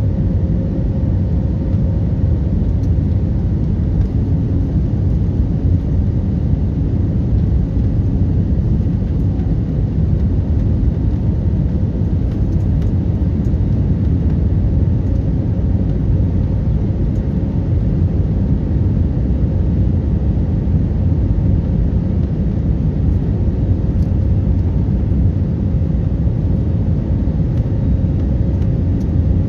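Airliner noise during landing: a steady low rumble with a faint steady hum above it, unchanging in level throughout.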